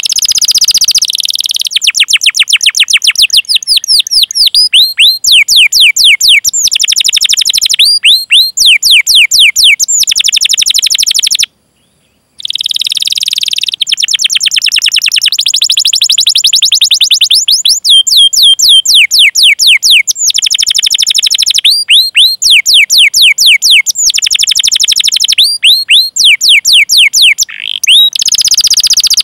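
Domestic canary singing long, fast trills of repeated high chirps, each sliding down in pitch, strung into phrases a few seconds long. The song cuts off completely for about a second near the middle.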